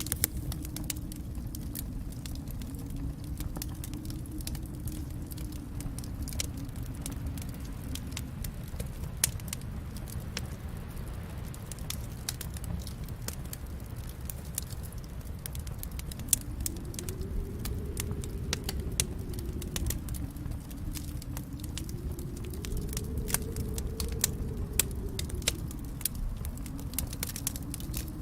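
Wood fire crackling in a fireplace: frequent sharp pops and snaps over a steady low rumble of the flames, with a few louder pops scattered through.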